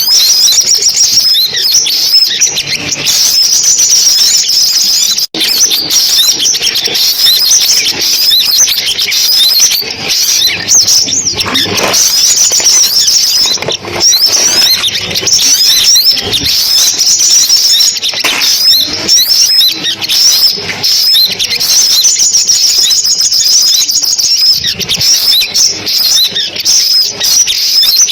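Sunbird calls: a dense, unbroken stream of high-pitched chirps and twittering trills, with a brief dropout about five seconds in.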